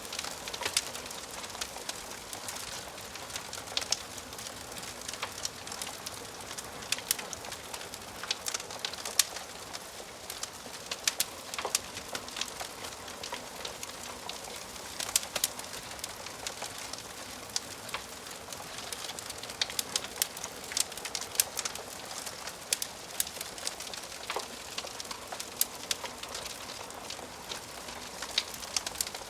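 Wood fire crackling in a fireplace: a steady soft hiss of flames with frequent irregular sharp pops and snaps of burning logs.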